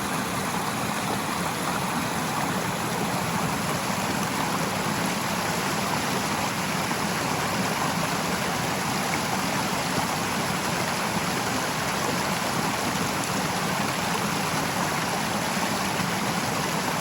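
A stream's water rushing steadily.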